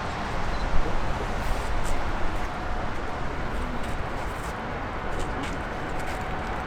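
Airliner jet engine noise: a steady roar with a few faint clicks.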